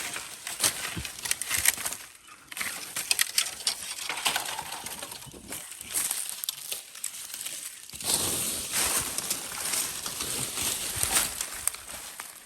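Dry leaves and brush rustling and crackling in uneven bursts, full of small snaps and clicks, as of someone pushing through forest undergrowth.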